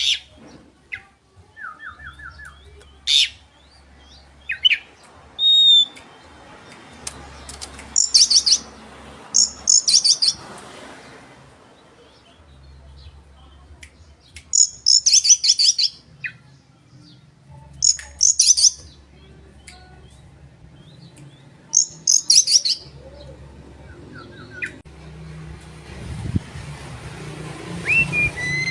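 Oriental magpie-robin (kacer) in full song: clear whistled notes and a short rattle, then loud, rapid trilled phrases repeated every few seconds. A broad background noise swells near the end.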